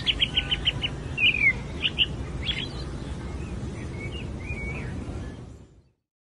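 Small birds chirping: a quick run of chirps at the start, then scattered single calls, some dropping in pitch, over a steady background hum. The sound fades out near the end.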